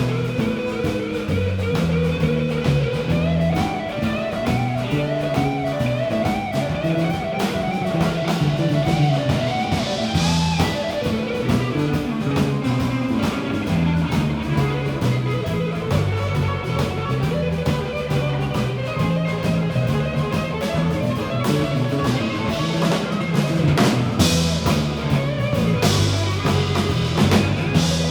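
Live band playing an instrumental passage: electric guitar over a walking bass line and a drum kit, with cymbal crashes near the end.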